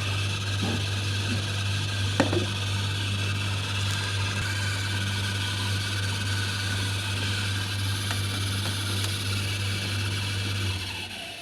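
Samsung 8 kg tumble dryer running with a steady hum and mechanical rubbing noise, a single knock about two seconds in, then winding down and stopping near the end. The noise is the squeaking that the repair traces to a failing drive motor.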